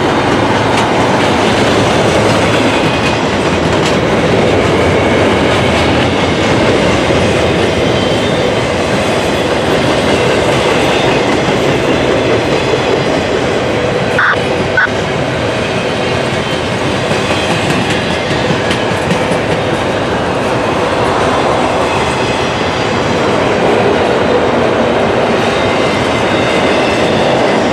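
Norfolk Southern intermodal freight train running past steadily, its cars and wheels rolling over the rails. Two short high-pitched tones come about halfway through.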